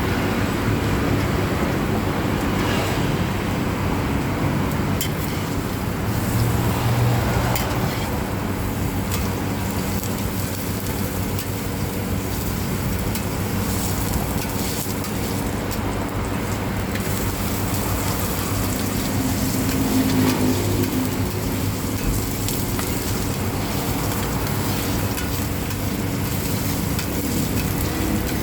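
Hoi tod, a shellfish-and-batter omelette, sizzling as it fries in oil on a hot pan, with a spatula scraping and clicking now and then. A steady low rumble of traffic runs underneath.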